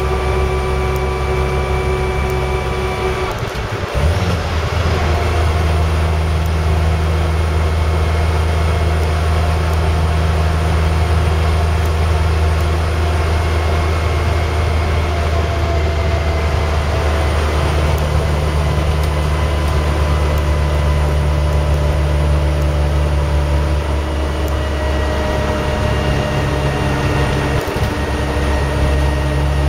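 Land Rover Series 3 driving on the road, heard from inside the cab: steady engine and drivetrain drone with several whining tones, broken by what sounds like a gear change about four seconds in. The back axle is noisy.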